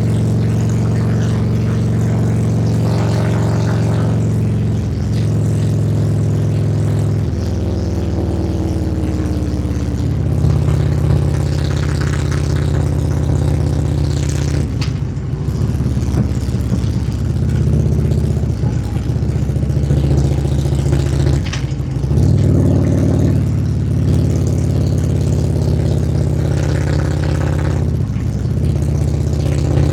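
Harley-Davidson Ultra Limited's V-twin engine running steadily under way on a ride. Its note shifts in pitch several times as the bike changes speed or gear.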